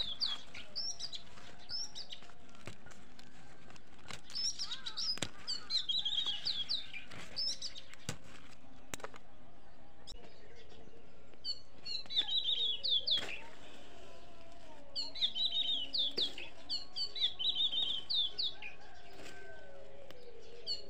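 Small birds chirping: runs of quick, high, repeated chirps that come in bursts every few seconds, with a few faint clicks in between.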